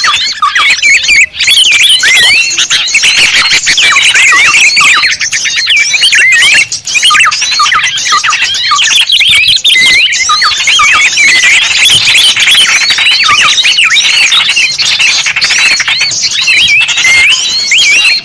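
Dense, loud chorus of small songbirds chirping and twittering, many quick rising and falling notes overlapping without pause: a bird-lure (pikat) recording for drawing in small birds.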